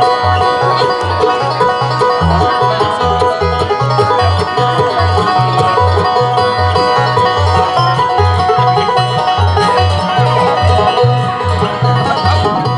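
Bluegrass band playing an instrumental intro: rolling banjo, mandolin and acoustic guitar over an upright bass plucking a steady two-beat bass line.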